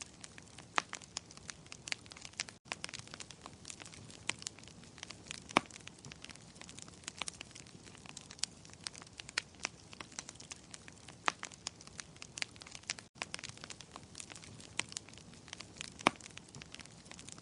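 Wood fire in a fireplace crackling and popping: many sharp, irregular snaps over a soft steady hiss, with two momentary gaps in the sound.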